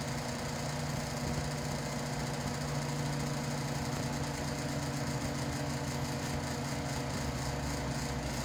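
A noisy electric shop fan running with a steady, even hum.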